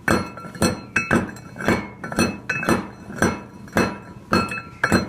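A hammer repeatedly striking gold specimens to crush and flatten them, about two blows a second with a short ring after each, around ten blows in all.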